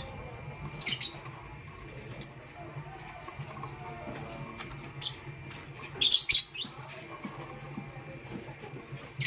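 Lovebirds giving short, sharp high-pitched chirps, a few scattered calls with a louder burst of chirping about six seconds in.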